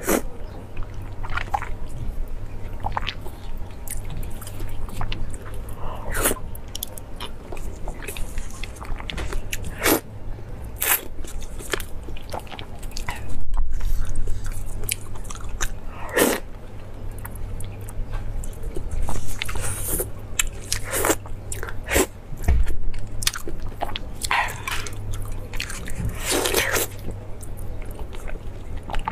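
Close-miked eating: a person biting into and chewing pieces of fish in chili sauce, with irregular wet smacks and small crunches.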